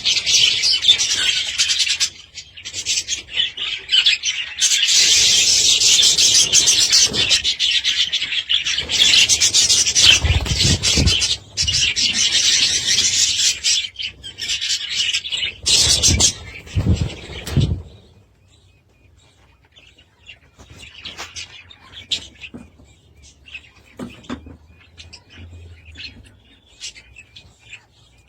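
A flock of budgerigars chattering and warbling loudly and continuously, with a few low thumps in the middle. About eighteen seconds in the chatter drops away to faint, scattered chirps.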